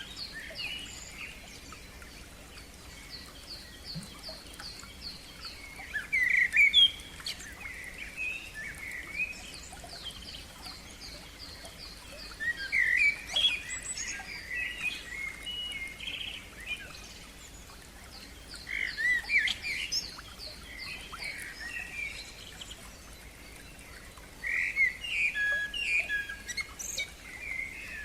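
Songbirds singing, with a loud bright phrase about every six seconds and softer runs of quick repeated notes between them.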